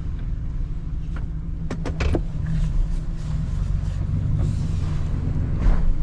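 Motor vehicle engine running steadily with a low rumble. A few short knocks or clicks come about two seconds in, and a brief rush of noise near the end.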